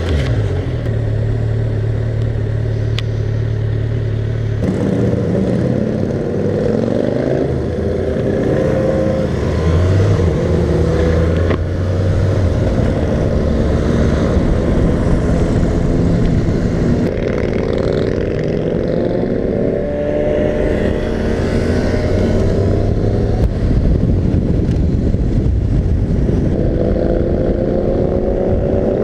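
2020 Kawasaki Z900's inline-four engine idling steadily, then pulling away at about five seconds in and accelerating through the gears. The pitch rises and drops back with each of several upshifts.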